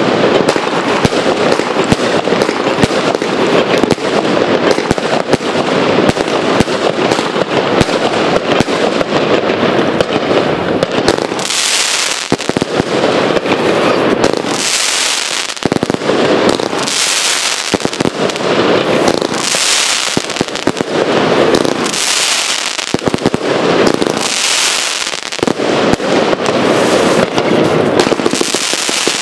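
Alpha Fireworks Adrenaline 108-shot compound firework cake firing. A dense, rapid run of shots and bursts comes first; from about eleven seconds in, the stars crackle in waves about every two seconds.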